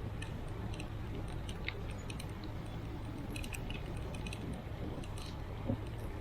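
Wind rumbling on the microphone during a bicycle ride, with scattered light clicks and rattles.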